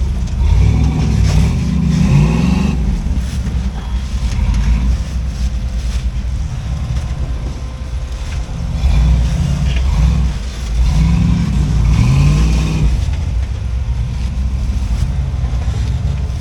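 Off-road rock crawler's engine running under load, revving up and back down in bursts about a second in and again around eleven seconds in as it works the rig over rocks.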